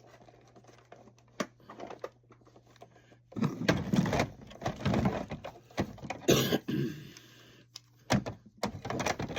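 Plastic toy playset and figure being handled: a few light clicks, then a few seconds of dense knocking and rubbing with a sharp snap in the middle, and more clicks and knocks near the end as the station is closed up.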